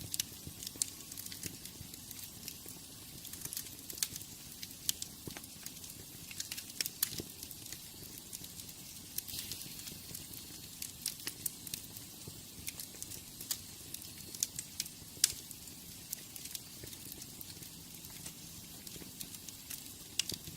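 Wood fire burning in a fireplace: a steady low rush of flame with frequent irregular sharp crackles and pops, one louder pop about fifteen seconds in.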